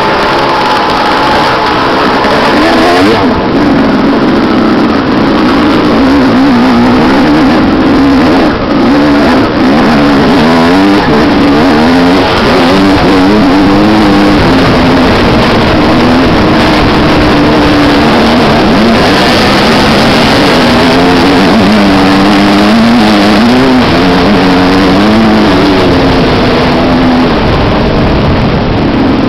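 Loud motocross dirt bike engine, its pitch rising and falling again and again as the throttle is opened and closed.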